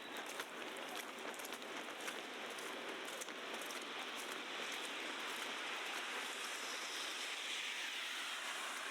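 Steady wet hiss of a slushy city street in falling wet snow, swelling for a few seconds past the middle, as of tyres passing on slush.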